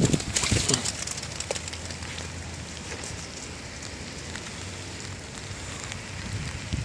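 Steady rain falling, an even hiss, with a short burst of crackling in the first second.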